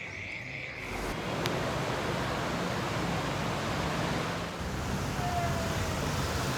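A steady high insect drone cuts off about a second in. It gives way to an even rushing, sloshing noise of moving floodwater.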